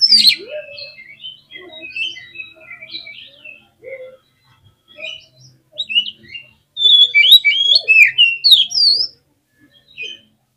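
Oriental magpie-robin (kacer) singing a fast, varied song of whistles and chirps that slide up and down in pitch. It opens loudly, thins out in the middle, and gives a dense, rapid run of notes in the second half before falling quiet.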